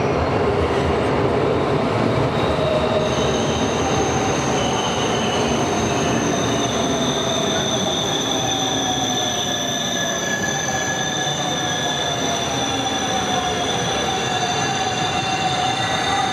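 Double-deck electric suburban S-line train pulling into the station: a steady rumble of the cars, with a high squeal of several held tones setting in about three seconds in as it slows.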